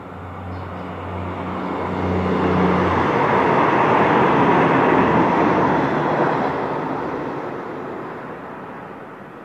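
Passenger train passing along the platform track: the running noise of wheels on rail swells to a peak about halfway through and then fades away. A steady low engine hum is heard for the first few seconds.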